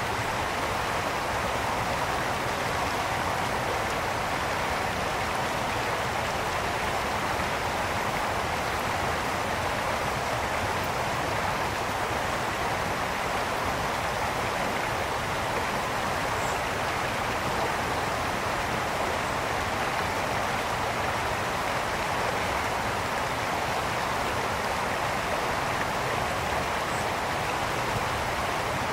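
A mountain brook running over stones: a steady, even rush of flowing water.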